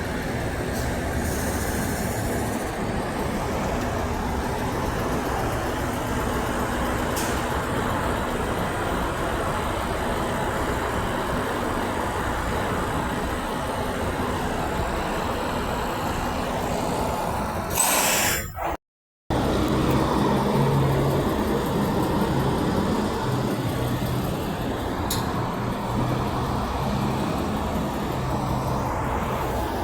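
Steady roadway traffic noise with heavy trucks running by, and no horn blast. About two-thirds of the way in there is a brief loud rustle, then the sound cuts out completely for half a second; after that a low engine hum sits under the traffic.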